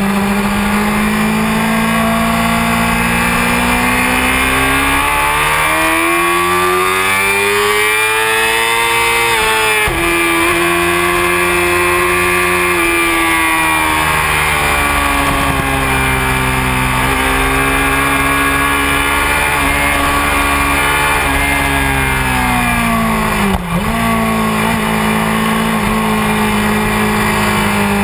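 Honda CBR600F4i's inline-four engine running hard under the rider. Its pitch climbs for several seconds, drops abruptly on a gear change about ten seconds in, holds, then falls away as the bike slows. A brief sharp dip comes near the end before the engine settles at a steady pitch.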